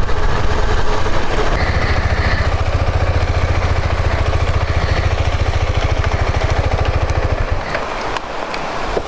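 Motorcycle engine running with a steady, even low pulsing beat, which dies away about seven and a half seconds in.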